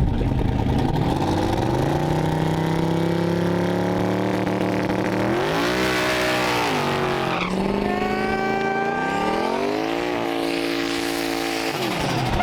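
A twin-turbo LS V8 drag car making a pass, its engine pulling hard with climbing revs. There is a sharp drop in revs at a gear change about seven and a half seconds in, then the revs climb again, and the engine comes off the throttle near the end.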